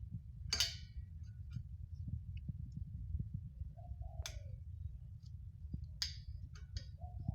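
A few sharp clicks and clinks of tools and parts being handled while an exhaust is fitted, spaced a second or more apart, over a low steady rumble.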